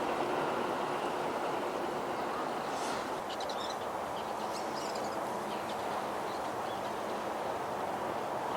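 A steady low background rumble with a few short, high bird chirps scattered between about three and six seconds in.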